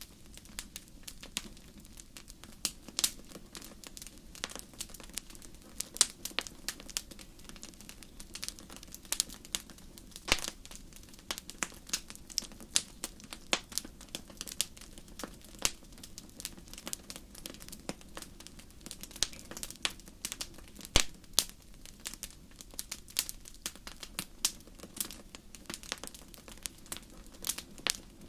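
Wood fire in a fireplace crackling: irregular sharp pops and snaps, several a second with a few louder ones, over a low steady hiss.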